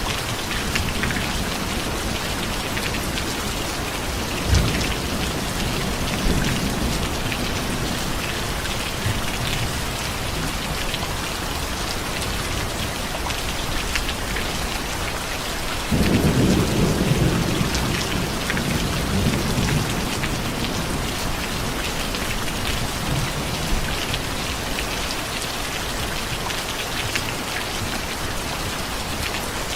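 Steady heavy rain falling, with thunder: a couple of short low rumbles early on, then a louder rumble of thunder that starts suddenly about halfway through and fades away over several seconds.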